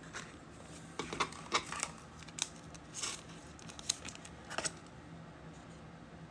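Trading cards handled by hand, slid and flicked against one another as they are sorted: a scatter of soft snaps and rustles, several between about one and five seconds in.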